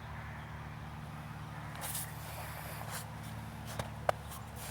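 A few crunching footsteps on snow and ice, over a steady low hum.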